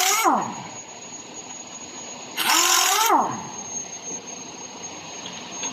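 Toyota Hilux gearbox giving short, harsh grinding bursts, one near the start and another about two and a half seconds in: the bad noise it makes when shifted into third gear.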